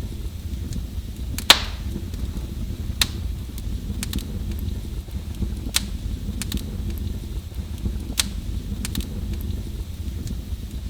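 Wood fire burning in a fireplace: a steady low rumble of flames with sharp crackles and pops, the loudest about a second and a half in and others every second or two.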